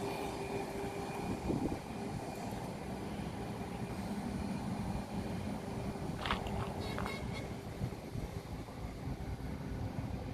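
Steady engine noise with a faint steady tone that fades away in the first few seconds, and a few brief high chirps about six seconds in.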